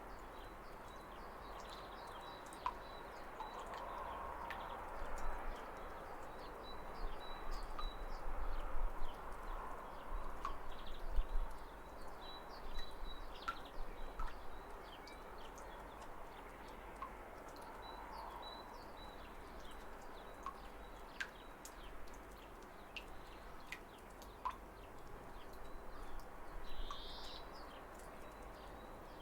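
Waterfall running steadily with birds chirping: short, scattered high chirps throughout and two longer, brighter calls near the end.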